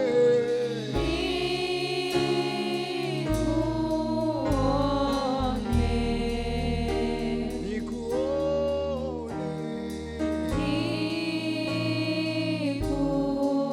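Gospel praise choir singing a slow Swahili worship song in long held notes, over a steady low instrumental accompaniment.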